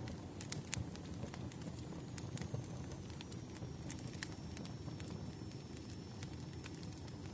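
Wood fire crackling, with irregular sharp pops and snaps over a steady low rumble of burning logs; a faint high whistle comes in about two seconds in.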